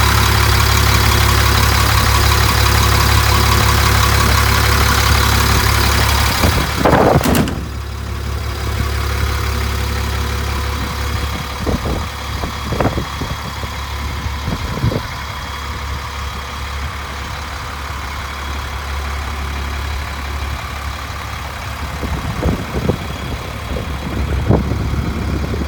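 Cummins 8.3-litre straight-six turbo diesel of a rear-engine school bus idling steadily. About seven seconds in there is a brief loud clatter, after which the sound turns duller, with a few short knocks scattered later.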